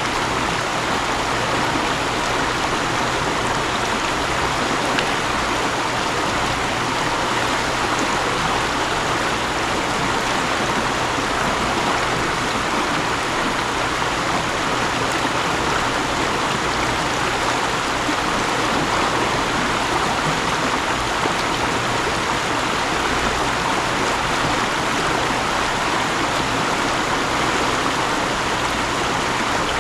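Mountain stream flowing in a steady, unbroken rush of running water.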